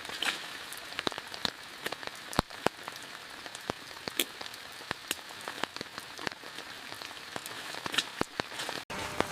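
Steady rain, with heavy drops striking close by in sharp, irregular taps.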